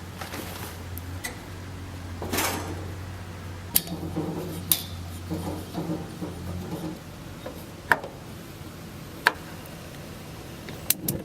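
Kitchen clatter of pans and utensils: several separate sharp clinks and knocks, with softer handling noise between them, over a steady low hum.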